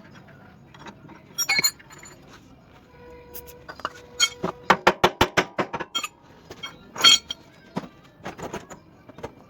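Metal hand tools clinking against metal parts while the steering linkage's center arm is unbolted, with a quick even run of about eight clicks near the middle.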